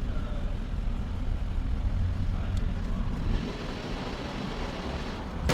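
Hyundai Azera's 3.0 V6 engine idling smoothly after a shorted ignition coil was replaced, its random multiple-cylinder misfire cured. About three seconds in, the low rumble thins and a steadier hiss comes up.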